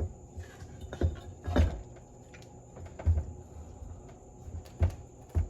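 Several sharp knocks and clunks, about five in all, of steering box parts being handled and fitted by hand during reassembly.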